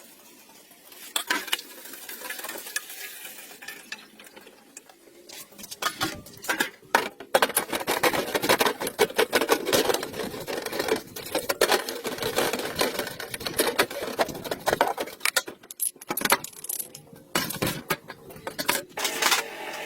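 Irregular clicking and clattering of small hard objects being handled, denser and louder from about six seconds in.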